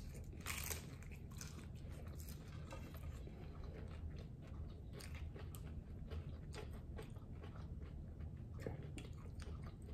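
Faint crunching and chewing of hard taco shells, a run of short irregular crackles as the shells are bitten and chewed.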